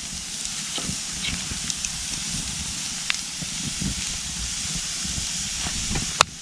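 Campfire burning with a steady hiss and a few sharp crackles, one about three seconds in and a louder pop near the end.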